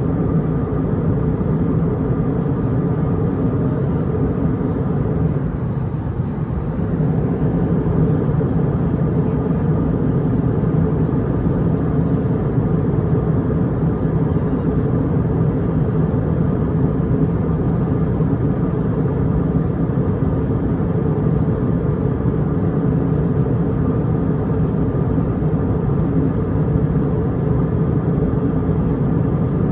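Steady cabin noise of an Airbus A320 airliner in cruise: an even roar of engines and airflow with a few constant humming tones beneath it.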